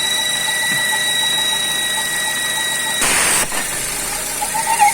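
Chevrolet Cruze engine idling with a steady high whistle from under the hood, which the mechanic traces to the exhaust gas recirculation valve, most likely a torn membrane. About three seconds in the whistle cuts off suddenly with a brief rush of air as the valve's hose is pulled off, and the engine keeps idling.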